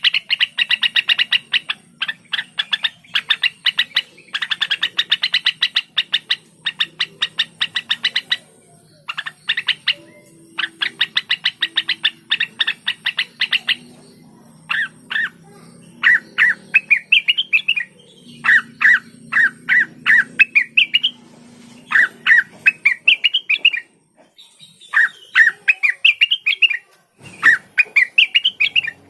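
Blue-winged leafbird (cucak wilis) singing. For roughly the first half it delivers long runs of very rapid chattering notes. It then switches to repeated short phrases of whistled notes that rise and fall, with brief pauses between them.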